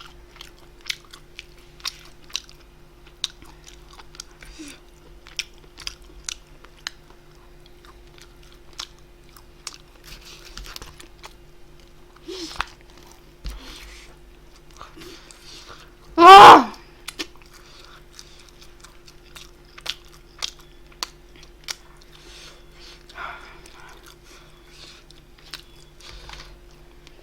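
Close-miked eating: chewing with scattered wet mouth clicks and smacks, over a faint steady hum. One brief, loud pitched sound cuts in about sixteen seconds in.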